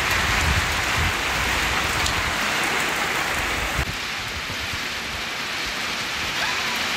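Steady rain falling on a wet concrete rooftop, with a low rumble underneath during the first two seconds or so.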